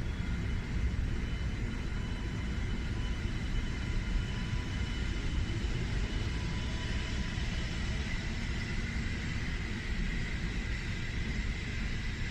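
700 series Shinkansen train pulling out of the station: a steady low rumble of the cars rolling, with a faint high motor whine that grows stronger in the second half as it gathers speed.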